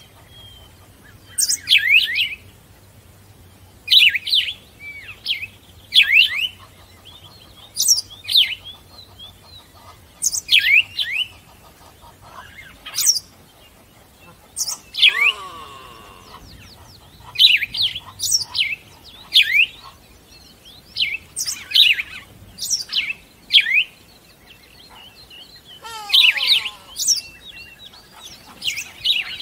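Birds chirping: short, sharp, downward-sweeping calls repeated every second or two, with a lower run of falling notes about halfway through and again near the end.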